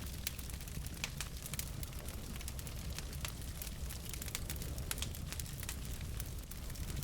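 Wood fire burning in a fireplace, logs crackling with many quick, irregular pops over a steady low rumble of the flames.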